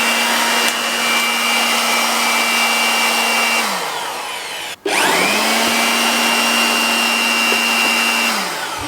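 INNTech IT-4014 850-watt electric blower running at full speed, a rush of air under a steady motor whine, then winding down about three and a half seconds in. It is switched on again about five seconds in, whines up to speed, runs, and winds down near the end.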